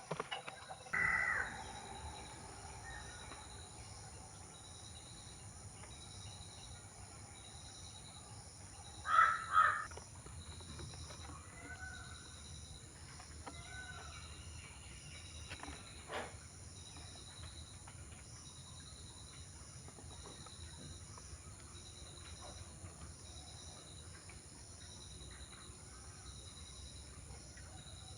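Bird calls: a loud call about a second in, two loud calls close together around nine seconds in, then a few fainter calls. Under them runs a steady, pulsing insect chorus.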